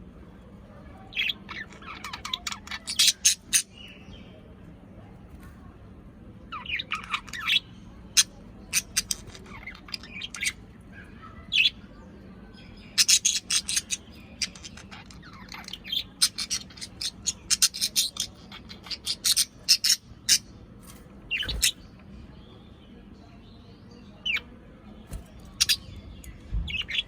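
Pet parrots chirping and squawking in quick clusters of sharp, high calls with short pauses between, over a faint steady low hum.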